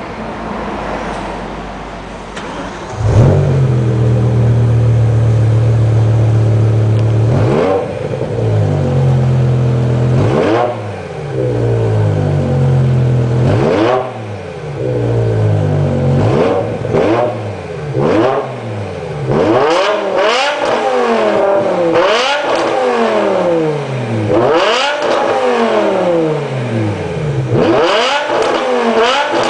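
BMW M6 E63's V10 engine through an Eisenmann race exhaust: it starts with a loud flare about three seconds in, idles steadily, then is revved over and over, the throttle blips coming quicker and higher toward the end.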